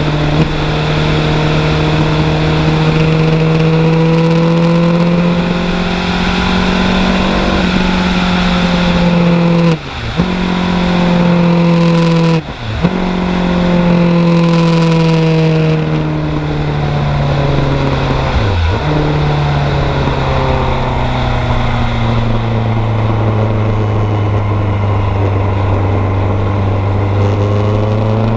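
1986 Kawasaki GPZ900R Ninja's 908 cc inline-four engine running under way on the move. Its note drops out briefly three times, about 10 and 12.5 seconds in and again near 18.5 seconds, then sinks slowly in pitch and starts to rise again near the end.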